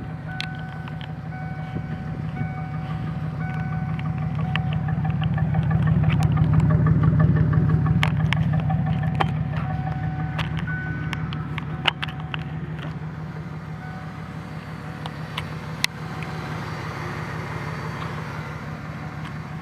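1998 Ford Mustang's 3.8-litre V6 running, its revs climbing slowly for several seconds and easing back. A short tone repeats about once a second over the engine, with a couple of sharp clicks. The owner cannot place the odd noise, which began after a cold air intake was fitted and is not the intake's air rush.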